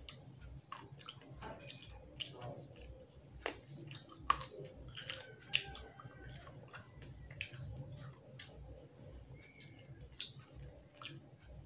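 Close-up chewing and mouth sounds of someone eating rice and tilapia fish curry by hand, with many scattered sharp clicks.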